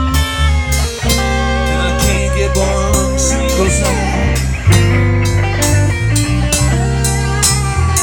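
Live slow blues band: an electric guitar plays a lead with wavering, bent notes over bass and drums keeping a steady beat.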